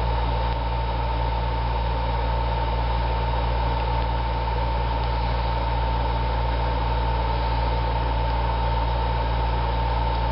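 Air conditioner running: a steady hum with a constant high whine.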